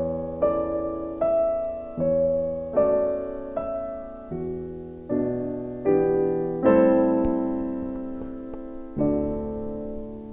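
Background piano music: slow, gentle notes struck one after another, each ringing and fading.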